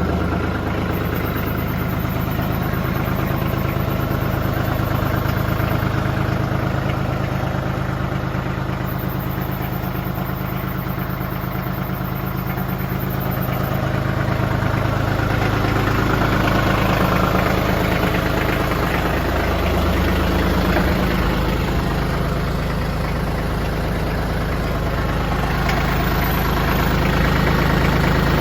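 TYM 2515h compact tractor's diesel engine idling steadily after a cold start, its throttle set slightly up, with small swells in loudness.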